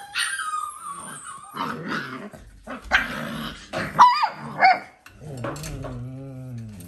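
Dalmatian puppies playing: a high whine at the start, sharp yips and barks around the middle, and a low growl over the last two seconds.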